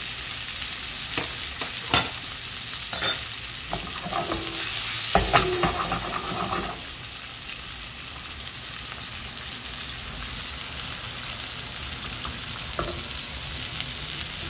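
Tuna steaks, butter and crushed garlic sizzling steadily in hot oil in a frying pan. A few sharp clicks and knocks fall in the first half, with a busier, louder stretch about four to six seconds in.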